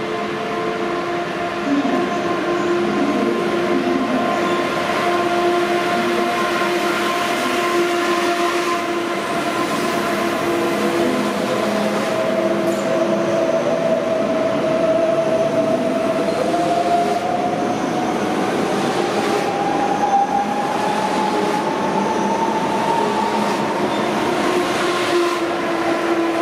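ICE high-speed electric train running along an underground station platform, a steady rumble with the whine of its electric traction gear, one tone of which climbs steadily through the second half as the train gathers speed.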